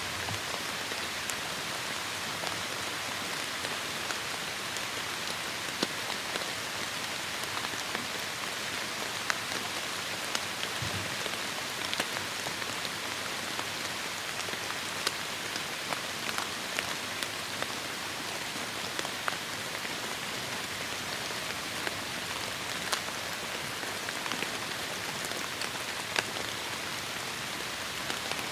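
Heavy rain falling steadily, a constant hiss with many sharp individual drops pattering close by.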